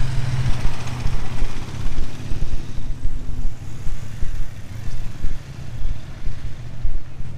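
A car engine running at low revs. Its low, steady note is strong at first, fades about half a second in and comes back around four and a half seconds in, over an uneven low rumble.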